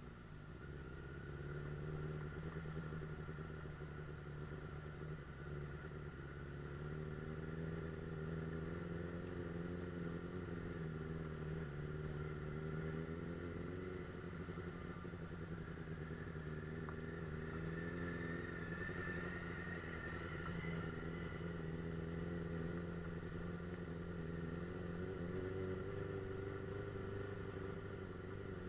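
Suzuki GSF 600 Bandit S motorcycle's inline-four engine running under way, holding a fairly steady pitch with gentle rises and falls in engine speed.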